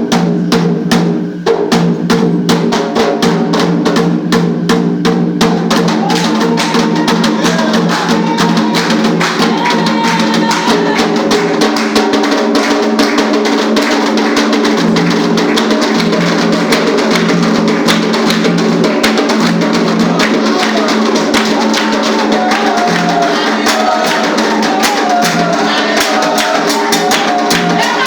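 Ritual drumming on atabaque hand drums with a fast, steady beat and voices singing a chant over it. It starts abruptly at full loudness.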